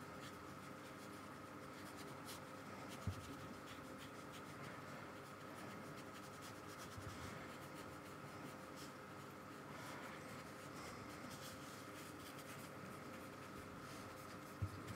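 Faint scratchy strokes and dabs of a paintbrush working gouache paint on paper, over a faint steady hum, with one light knock about three seconds in.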